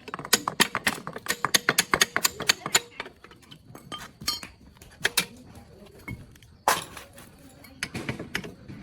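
Small metal parts and hand tools clinking and tapping against each other: a quick run of sharp clicks for about three seconds, then scattered single knocks, the loudest about two-thirds of the way through.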